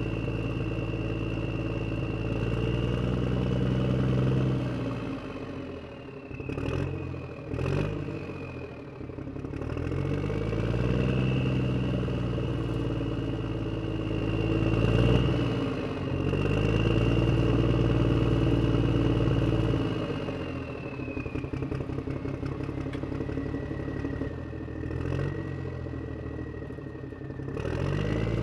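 Radio-controlled HuiNa toy wheel loader running, its motor whine gliding up and down in pitch as it speeds up and slows down. A few short clattering knocks come about six to eight seconds in and again near the end.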